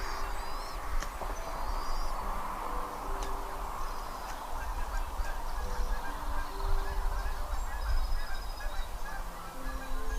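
Steady low rumble and hiss, with short high chirping bird calls and a few clicks. A slow run of pure held low notes steps from one pitch to the next about once a second.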